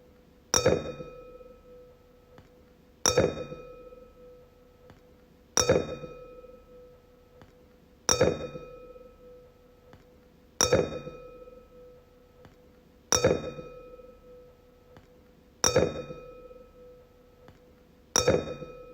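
A wine glass struck over and over, about once every two and a half seconds, eight times in all. Each tap rings out with a clear tone and fading higher overtones.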